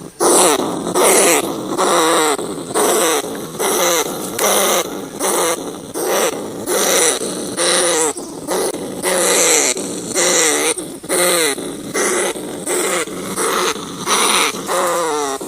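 Rat squealing and growling over and over, a little more than one harsh call a second, each call falling in pitch with a hiss above it.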